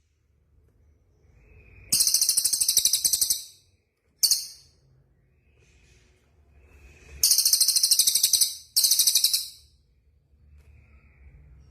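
Songbird singing loud, very high, fast-trilled phrases: three long ones and one short burst, with faint softer calls between. It is a cut from a combined masteran song recording of cililin, canary and kapas tembak.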